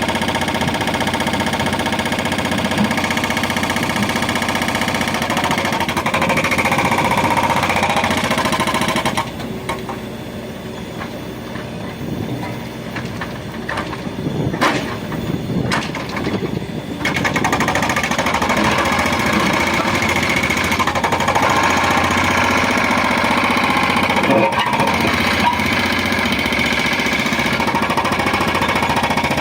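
Backhoe loader's diesel engine working hard, a loud fast rattle. It eases to a lower level for several seconds in the middle, with a few knocks, then comes back up to full.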